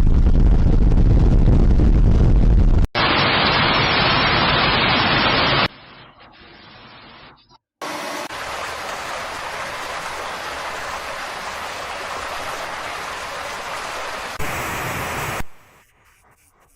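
Steady rushing noise of floodwater, in several clips spliced together with abrupt cuts. It is loudest and deepest in the first three seconds, drops to a quieter hiss after about six seconds, returns about eight seconds in, and falls away to a faint background about a second before the end.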